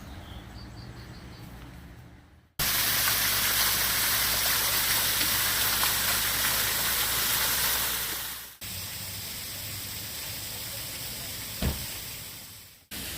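Steady rushing hiss, loud, that starts abruptly about two and a half seconds in and drops abruptly to a quieter steady hiss about six seconds later, with a single knock near the end.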